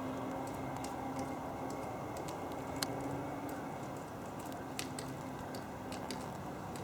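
Great spotted woodpecker pecking: irregular sharp taps, roughly one or two a second, over a steady background hum.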